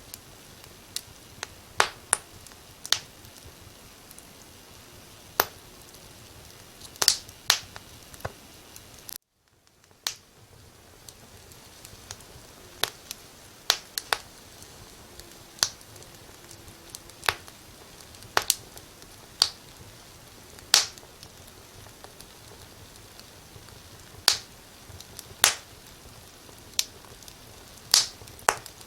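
Wood fire crackling: irregular sharp pops, a couple of dozen in all, over a steady soft hiss. About nine seconds in, the sound cuts out to silence for under a second and then fades back in.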